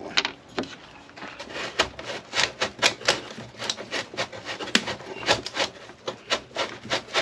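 Irregular series of sharp clicks and knocks on wood, roughly two to four a second, from hand work on plywood for stanchion backing plates.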